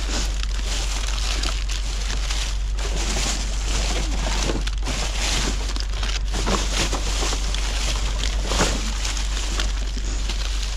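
Rummaging through a dumpster by hand: packaging and plastic rustling, crinkling and knocking in short irregular bursts over a steady low rumble.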